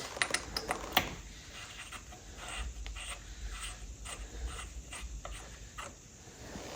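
A socket wrench working a spark plug loose from the engine of a 1951 Allis-Chalmers WD tractor. A few sharp metal clicks come in the first second, then a faint run of light clicks and scraping, two to three a second, as the plug is turned out.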